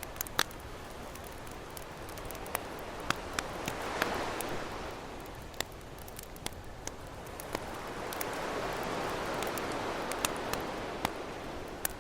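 Campfire crackling with scattered sharp pops, over ocean waves washing in: one swell about four seconds in and a longer one in the second half.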